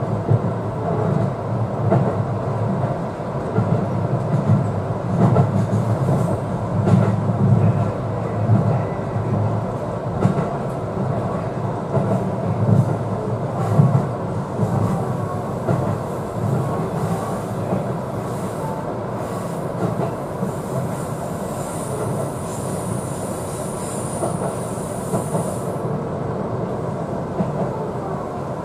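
Seibu 4000 series electric train running, heard from behind the driver's cab: a steady rumble of wheels on rail with scattered clicks over rail joints. A thin high wheel squeal joins in past the middle and cuts off about five seconds later.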